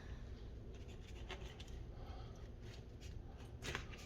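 Knife cutting and scraping through a tilapia fillet as its bones and bloodline are taken out: a few soft scrapes, the clearest near the end, over a low steady hum.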